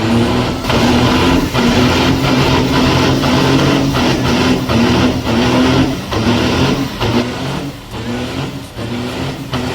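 Vehicle engine revving hard and held at high revs, easing off briefly a couple of times near the end.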